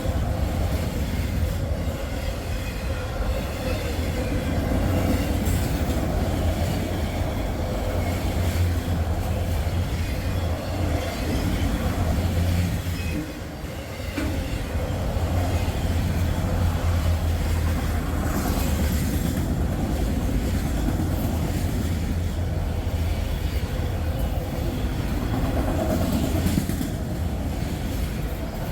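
Freight train's cars rolling past: a steady rumble and clatter of steel wheels on rail, dipping briefly about halfway.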